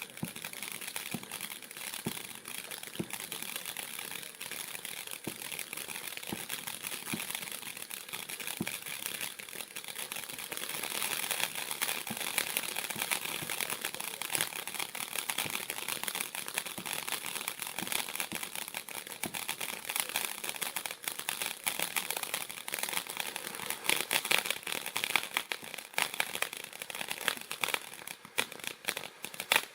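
Red Horse Fireworks 'Happy Jester' firework burning with a steady hiss and a dense, fast crackle. It gets louder about a third of the way through, and the crackles turn sharper near the end.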